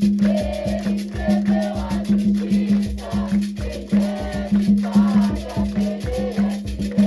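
Drums and shakers playing a fast, steady rhythm, with singing over it.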